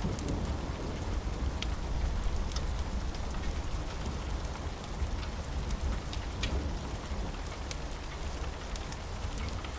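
Steady rain with a low rumble underneath and scattered sharp ticks throughout.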